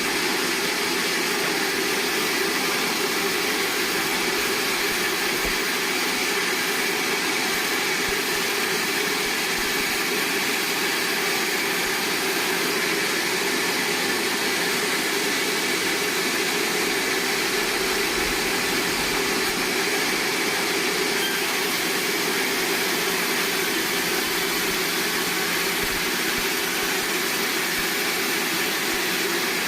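Sawmill machinery running at a steady, unchanging level.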